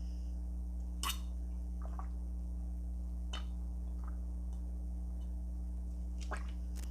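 A steady low electrical hum, with a few faint soft clicks and squishy little sounds at intervals.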